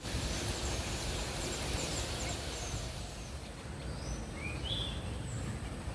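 Birdsong over a steady low rumble: thin, high, downward chirps in the first three seconds, then two louder short call notes about four and a half seconds in, which fit the sooty-headed bulbul the video is about.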